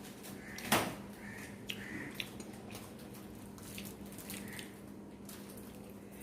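A person eating: soft wet chewing and lip smacks with scattered small clicks, the loudest a sharp click a little under a second in, over a low steady hum.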